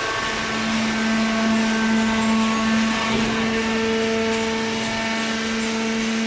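Automatic horizontal cardboard baler running, its hydraulic power unit giving a steady hum with a constant low tone over general machine noise.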